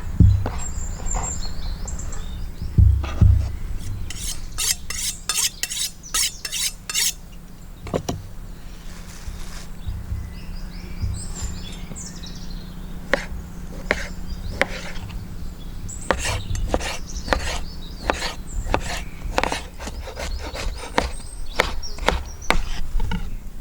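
Food-preparation handling sounds: utensils rubbing, scraping and clicking against wood and dishes, with a quick run of rasping strokes about four seconds in.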